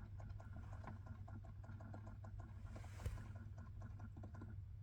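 Faint, rapid, irregular clicking from a 2010 Honda Pilot that cranks but will not start, over a low steady hum. Near the end the owner reacts to it as a sound he has never heard before.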